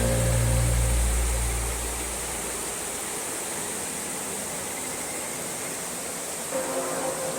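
Mountain stream rushing steadily, an even hiss of running water. Background music fades out over the first two seconds and returns faintly near the end.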